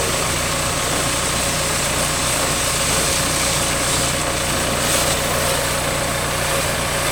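An engine running steadily under the continuous hiss of a high-pressure water jet spraying, as in pressure-washing a tractor.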